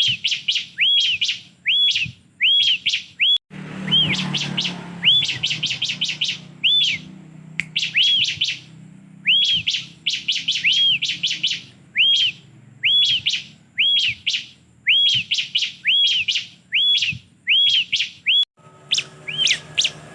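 Bar-winged prinia (ciblek) singing: a high, arched chirp repeated about twice a second, each followed by quick down-sweeping notes, in a steady run that hardly pauses.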